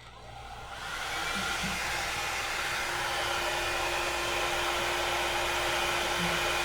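Auto-rotating round-barrel hair dryer switched on, its motor spinning up over the first second and then running steadily with an even whir of blowing air. A steady hum tone joins about three seconds in.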